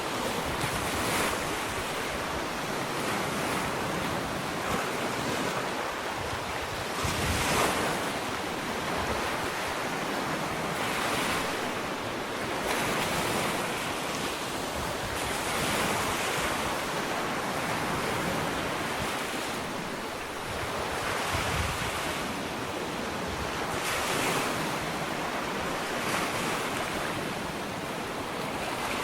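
Ocean waves breaking and washing up a sandy beach, a continuous surf hiss that swells with each wave every few seconds.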